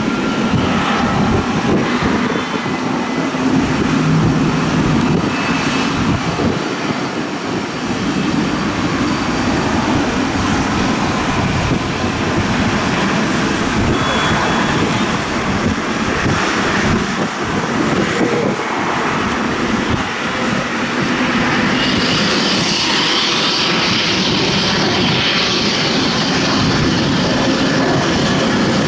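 Boeing 737-800's two CFM56-7B turbofan engines at takeoff thrust, a loud, steady jet roar. From about three quarters of the way through, a higher hiss grows stronger.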